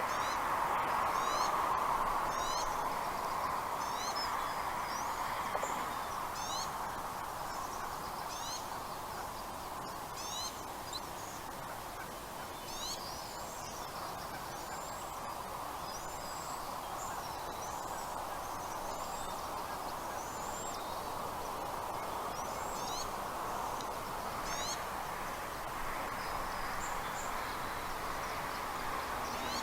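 Birds chirping: many short, high-pitched rising notes, repeated irregularly, over a steady rushing noise.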